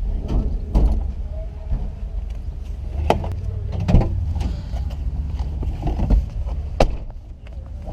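Low, steady vehicle rumble with several sharp knocks and clicks scattered through it.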